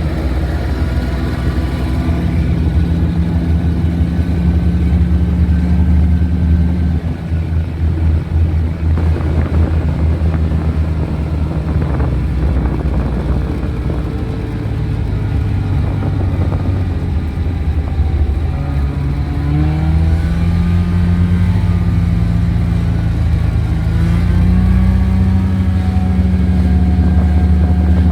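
Engine of a 1970 Cony kei truck running under load while driving off-road: steady at first, rougher and lower through the middle, then rising in pitch twice in the second half as it picks up speed.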